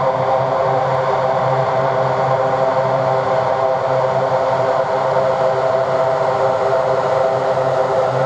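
Lockheed C-130T Hercules' four Allison T56 turboprop engines running, a steady drone of several held tones with a low hum beneath.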